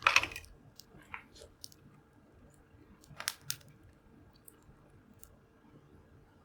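Wood fire crackling with scattered sharp pops and snaps. The loudest are a crunching snap at the very start and a pair of pops about three seconds in.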